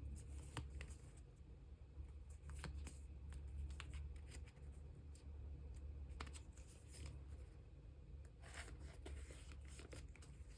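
Thin plastic card sleeves rustling, with light clicks and crinkles as photocards are slipped into clear sleeves and handled, over a steady low hum.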